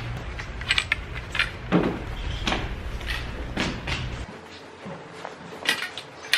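A string of short, irregular knocks and scrapes over a low rumble; the rumble cuts out about four seconds in.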